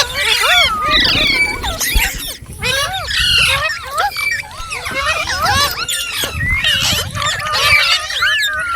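Ringneck parakeet chattering without pause, a stream of quick squawks and whistles that sweep up and down in pitch.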